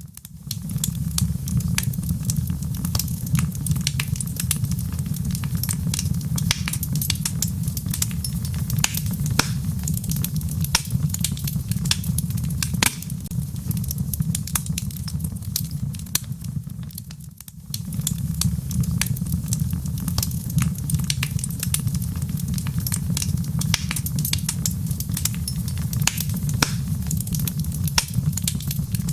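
Wood fire burning in a fireplace: logs crackling with many small sharp pops over a steady low rumble of the flames. The sound briefly drops away about 17 seconds in, then resumes.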